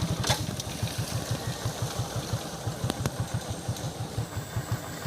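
Motorcycle engine idling, a steady low beat of about eight pulses a second.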